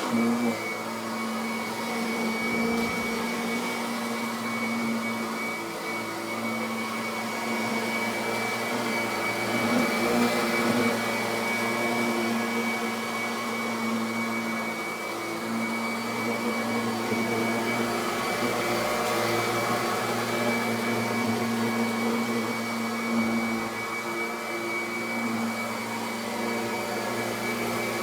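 Kirby Avalir upright vacuum cleaner running steadily as it goes over carpet, post-vacuuming it after shampooing.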